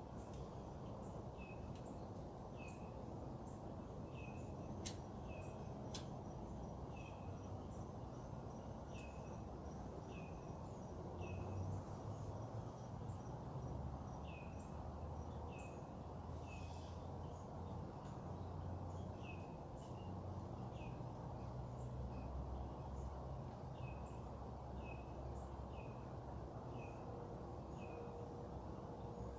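Steady low background rumble and hiss, with a bird repeating a short falling chirp about once a second. Two sharp clicks come about five and six seconds in.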